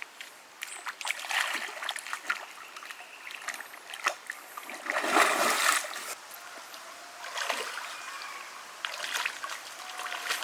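Water splashing in irregular bursts over the running water of a creek, loudest about five seconds in.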